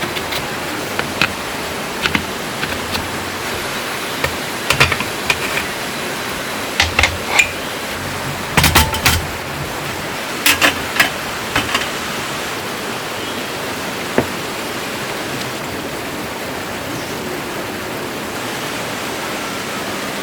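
Steady rushing of running water, with scattered sharp clicks and knocks, most of them in the first half.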